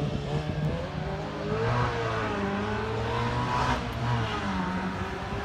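A classic sports car's engine running hard up a hill-climb course, its pitch climbing and dropping several times as it accelerates and changes gear.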